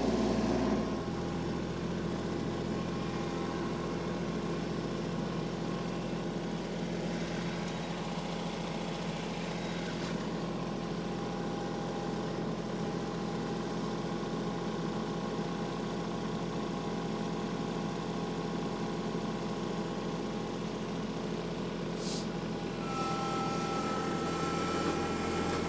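Tractor engine running steadily, dropping a little in level about a second in and picking up slightly near the end.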